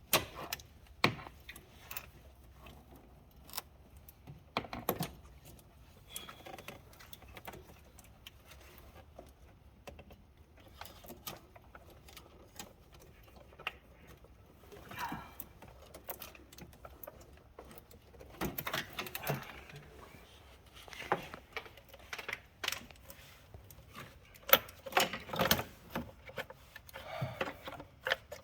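Scattered metallic clicks, clinks and short bouts of clatter, irregular and without any steady rhythm, busier in the last third, like hand tools and small parts being handled.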